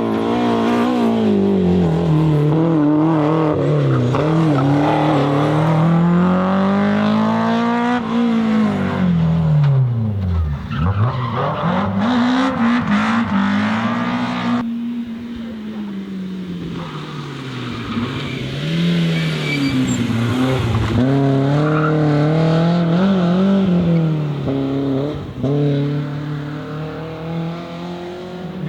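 BMW M3 E30's S14 four-cylinder engine at full throttle, its pitch climbing and dropping again and again as it is driven hard through the gears. The sound switches abruptly to another run about halfway through.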